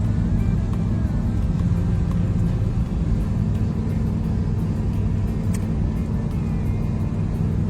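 Car engine running steadily with a low rumble, likely with background music underneath.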